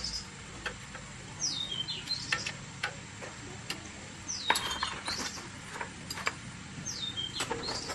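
A bird sings a short phrase over and over, about every three seconds: a quick falling whistle followed by a brief rising note. Light sharp clicks and taps fall in between.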